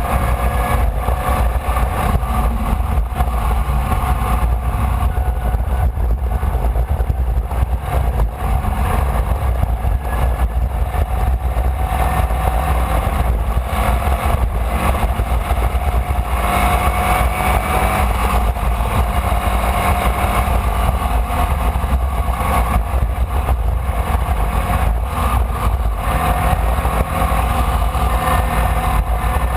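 Formula Vee's air-cooled Volkswagen flat-four engine running hard, its pitch rising and falling with throttle and gear changes, over a heavy low rumble.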